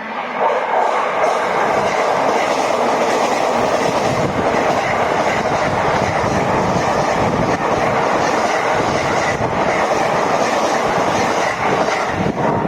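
A train running past close by, loud and steady after a sharp rise about half a second in.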